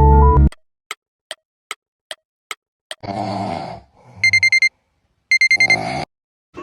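A clock ticking, six ticks a little over two a second, then an alarm clock beeping in rapid pulses, in two bursts about a second apart. A short rough noisy sound comes just before the first burst and again at the end of the second.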